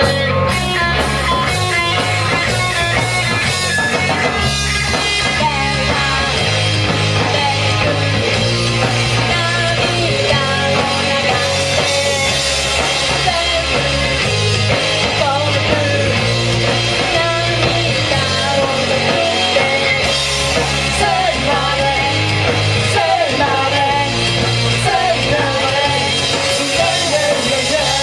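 Live rock band music: electric guitar and band playing loudly and without a break, with a wavering melody line over a steady low end.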